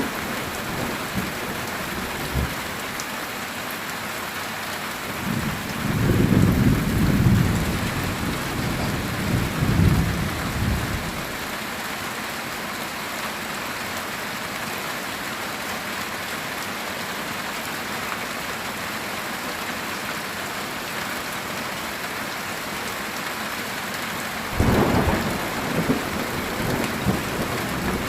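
Heavy rain falling steadily on a metal tin roof, with thunder rumbling twice: a long roll about five seconds in that fades by eleven seconds, and another starting near the end.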